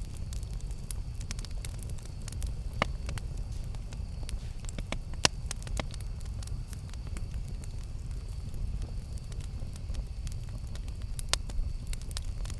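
Campfire burning with a steady low rumble and scattered sharp crackles and pops from the burning wood, a few louder pops standing out about 3, 5 and 11 seconds in.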